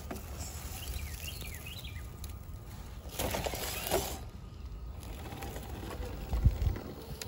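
Songbirds chirping faintly over a steady outdoor background, with a brief rustle of dry leaves about three seconds in and a short low thump near the end.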